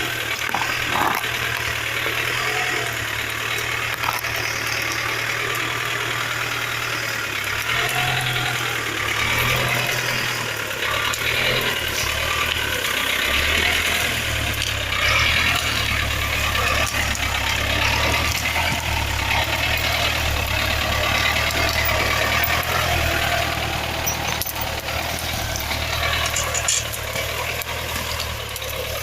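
GAZ-63 truck's straight-six petrol engine running steadily.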